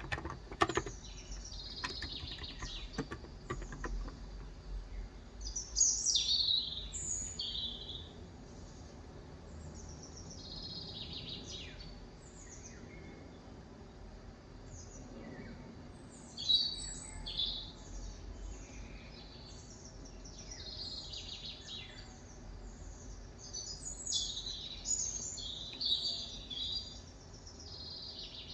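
Small birds chirping and calling outside, short high chirps in repeated clusters, busiest about six seconds in, around sixteen seconds and again near the end. A few keyboard keystrokes sound right at the start.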